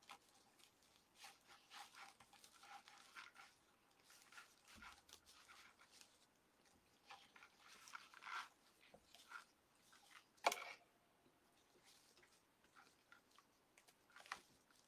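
Faint, intermittent rustling and crinkling of deco mesh and burlap being handled and worked into a wreath, with one sharp click about ten and a half seconds in.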